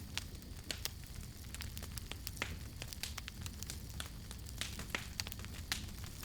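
Crackling wood campfire: irregular sharp pops and snaps, several a second, over a steady low rumble of burning.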